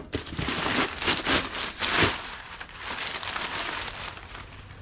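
Rustling and crinkling of packaging in a cardboard shipping box being searched through: an irregular run of scratchy crackles, busiest in the first two seconds, then thinning out.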